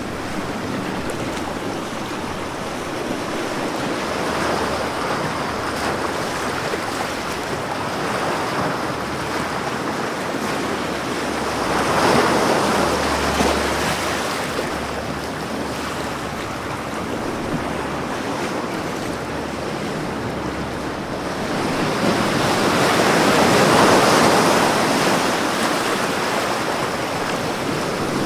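Ocean waves breaking on a beach, a continuous wash of surf with two larger waves swelling in, about twelve seconds and about twenty-four seconds in.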